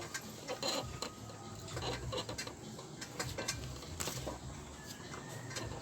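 Irregular metallic clicks and clinks of hand tools working on an engine, over a steady low hum.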